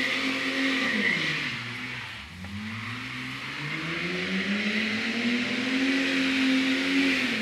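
A car engine held at high revs during a burnout, with the hiss of spinning tyres over it. The revs fall away about a second in, climb steadily again over the next several seconds, and drop off right at the end.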